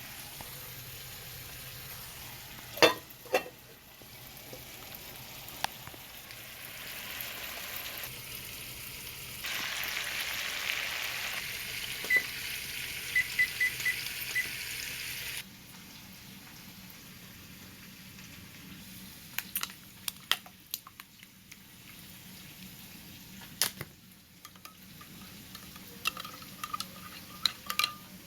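Food sizzling in an oiled skillet, with a steady hiss that grows louder for a few seconds about halfway through. Sharp clinks and clicks of utensils against the pan are heard now and then.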